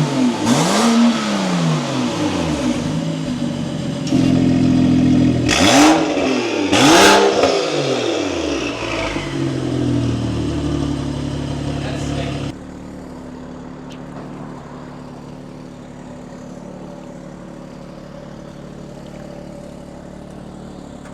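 BMW 135i's turbocharged straight-six revved hard through an aftermarket valved exhaust in quick blips, two near the start and two sharper ones about six and seven seconds in. About twelve seconds in it drops suddenly to a quieter, steady running sound.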